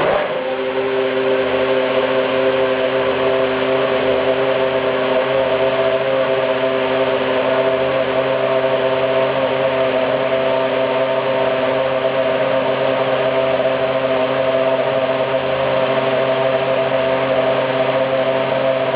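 Toyota Formula One racing engine running at a steady idle, one even multi-toned note that holds without revving.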